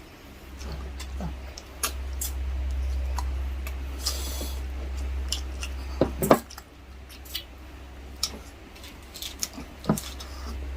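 Cutlery clinking and scraping on plates during a meal: scattered clicks, with a louder knock about six seconds in and another near the end, over a steady low hum.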